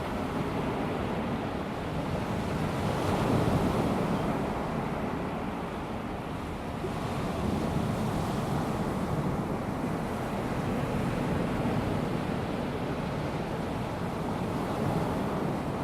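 Small waves of a calm sea washing onto a sandy beach, a steady wash of surf that swells and eases slowly every few seconds.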